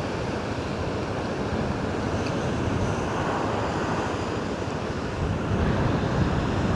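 Large storm waves breaking on the shore, heard as a steady rush of surf that swells a little twice, with wind on the microphone.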